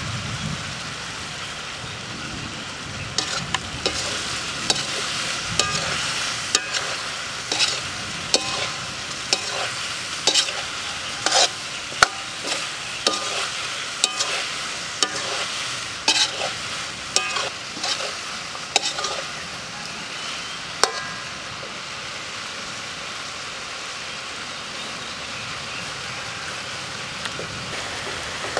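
Beef meatballs frying in sauce in a metal wok, sizzling steadily, while a metal ladle stirring them scrapes and clinks against the pan many times. The clinking stops about two-thirds of the way through, leaving the sizzle alone.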